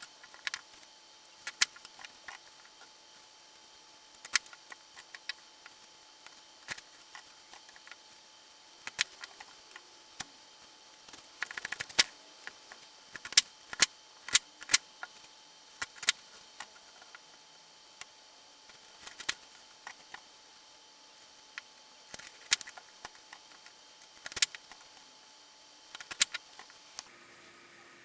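Irregular sharp clicks and taps of kitchen utensils, spaced a second or more apart, with a quick cluster of taps about halfway through.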